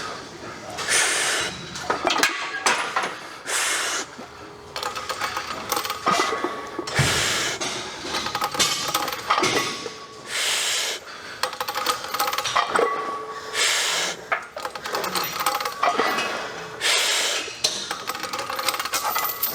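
Metal chains on a loaded barbell clinking and jangling over and over through a set of squats, a burst of clanking every second or two.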